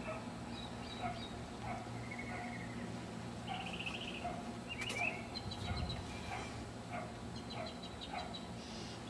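Small birds chirping, with short repeated calls and trills, over a steady low hum.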